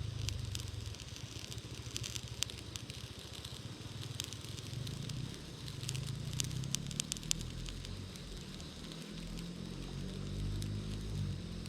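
Quick-light (self-igniting) charcoal burning in a small B6-size tabletop grill, crackling with scattered sharp pops over a low steady rumble. The pops come thickest about two seconds in and again around six to seven seconds in.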